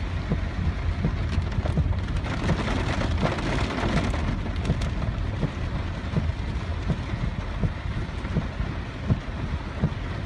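Rain pattering on a car, heard from inside the cabin over the low, steady rumble of the vehicle driving, with many small irregular drop ticks. A louder rush of hiss swells for a couple of seconds about two seconds in.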